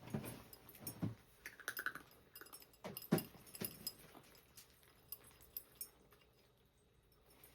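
Cats eating breakfast at their bowls: a few soft knocks and clinks against the dishes, then light rapid ticks of dry food being eaten, fading out.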